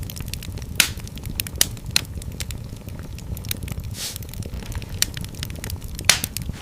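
Fire in a fireplace crackling: irregular snaps and pops over a steady low rumble of the flames, with a few sharper pops (under a second in, between one and a half and two seconds in, and near the end) and a brief hiss around four seconds in.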